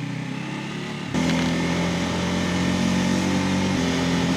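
Bajaj Pulsar N250 single-cylinder engine running on the road, with a steady tone. About a second in it gets abruptly louder and holds there.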